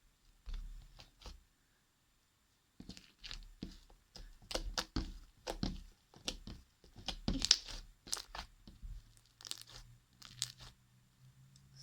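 Fluffy slime made with glue and shaving foam being squeezed and stretched by hand, giving irregular sticky crackles and pops, with a short pause about two seconds in.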